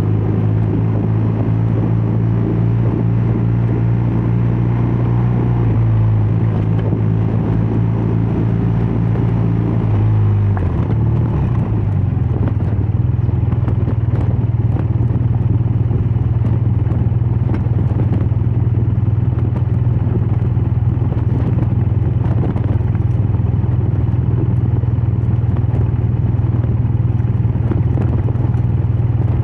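BMW R12 nineT's air/oil-cooled boxer twin engine and exhaust running steadily while riding, with wind and road noise; the engine note changes about ten seconds in, then holds steady.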